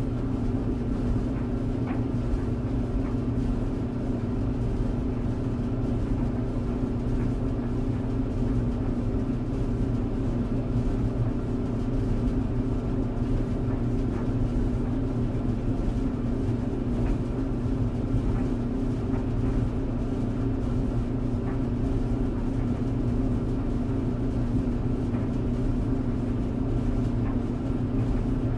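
Clothes tumble dryer running steadily: a constant motor hum with several steady pitches over the drum's low rumble, with a few faint ticks now and then.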